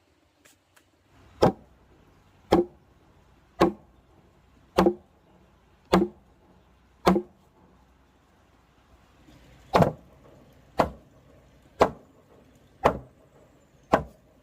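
Repeated heavy blows of a hand tool, six about a second apart, a short pause, then five more at the same pace.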